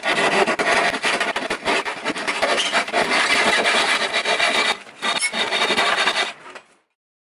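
A hand tool cutting and shaping wood in quick, rasping back-and-forth strokes. It pauses briefly about two-thirds of the way through, resumes, then stops.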